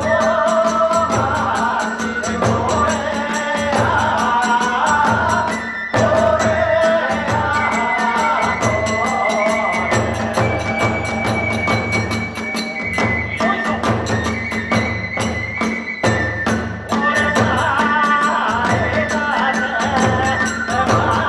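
Hiroshima kagura hayashi music: a bamboo fue flute plays a wavering melody over regular beats of the big drum, with rapid clashing of the tebyoshi hand cymbals.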